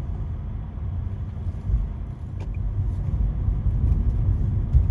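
A car driving along at steady speed: a low, even rumble of engine and road noise.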